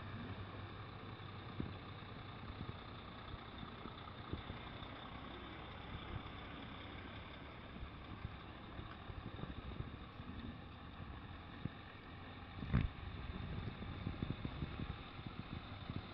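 Vehicle engine running steadily, with scattered small knocks and rattles and one sharp thump near the end.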